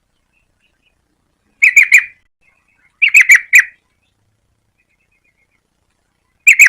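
Yellow-vented bulbul calling: three short bursts of quick, sharp chirping notes, the last one near the end.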